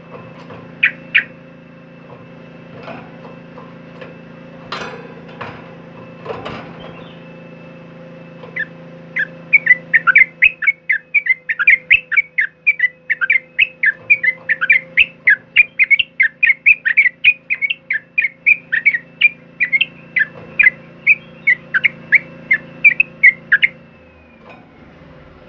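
Yellow-vented bulbul (trucukan) singing: a few scattered calls, then, about a third of the way in, a fast run of loud, short chattering notes that lasts some fifteen seconds and stops shortly before the end. A steady faint hum lies underneath.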